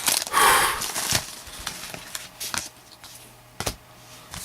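Trading cards and foil pack wrappers being handled: a short rustle about half a second in, then scattered light clicks and taps.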